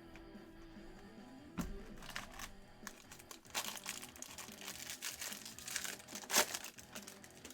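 Baseball card pack wrappers crinkling and tearing as jumbo packs are opened, in irregular crackles with a sharp loud crackle near the end. Quiet background music plays underneath.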